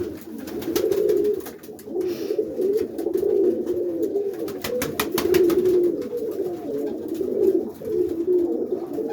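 Many roller pigeons cooing continuously over one another, a steady overlapping warble, with scattered light clicks throughout.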